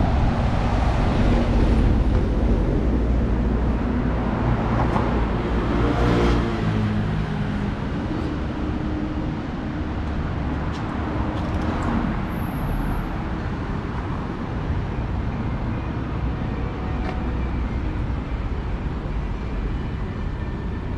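Road traffic passing close by on a city street, with a vehicle going past about six seconds in, its engine note dropping as it passes, then a steady traffic rumble.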